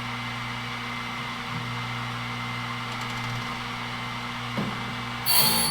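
Wood-Mizer BMS250 bandsaw blade sharpener running with a steady motor hum as it works through a blade, with a short, loud, high-pitched hiss near the end.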